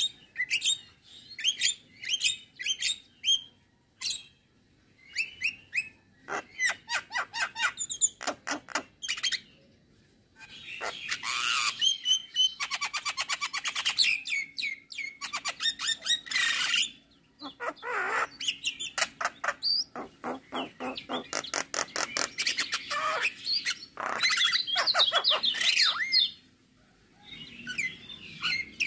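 Male Javan myna singing: phrases of fast, sharply repeated notes and chattering, broken by short pauses.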